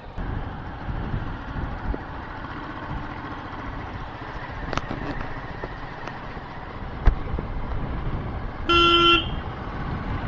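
Steady wind and road noise of a moving motorcycle, with a short vehicle horn honk lasting about half a second near the end.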